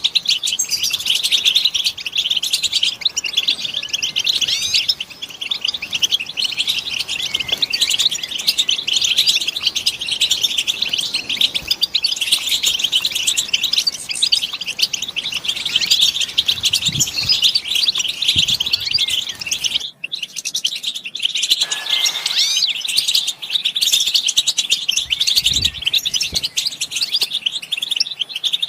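A flock of European goldfinches twittering together, a dense, unbroken chatter of rapid high chirps and calls, with a momentary break about twenty seconds in.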